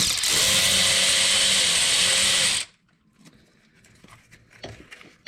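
A power tool running at a steady pitch for about two and a half seconds and then stopping abruptly, followed by faint small clicks.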